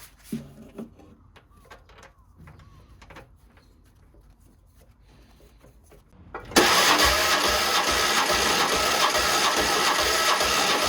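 A few faint clicks and knocks, then about two-thirds of the way in a Fiat 500's air-cooled two-cylinder engine, bored up to 750cc, starts abruptly and runs loud and steady with an even low pulsing.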